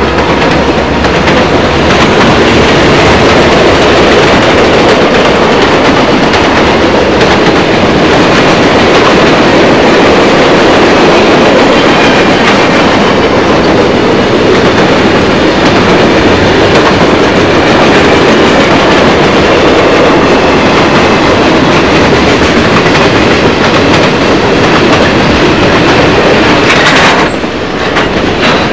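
A train passing close by: the steady, loud rumble and clatter of railroad cars rolling on the track, with a faint high squeal partway through. The sound dips briefly near the end.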